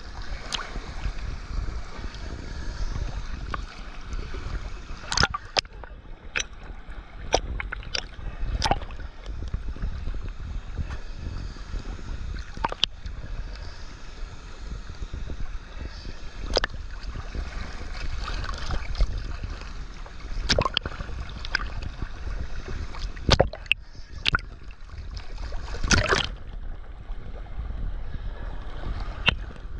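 Steady rush of a waterfall, with low wind rumble on the microphone. About a dozen sharp clicks are scattered through it, loudest around the middle and near the end.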